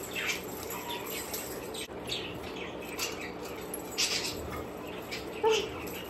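Pet birds chirping in short, scattered high calls every second or so, over a faint steady hum.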